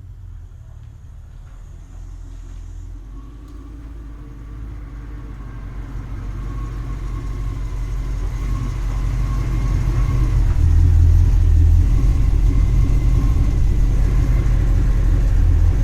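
Triumph Stag's 3.0-litre V8 engine running, a low rumble that grows steadily louder over the first ten seconds or so and then holds.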